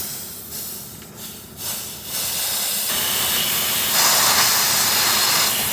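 Refrigerant hissing out of the gauge-manifold charging hoses as they are purged of air before charging. It comes in short spurts at first, then runs as a steady, louder hiss from about two seconds in.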